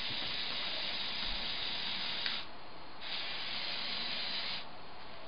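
Lego 8043 excavator's electric Power Functions motors and plastic gear trains running with a steady whirring hiss. They stop briefly a little over two seconds in, start again, and stop about three-quarters of the way through.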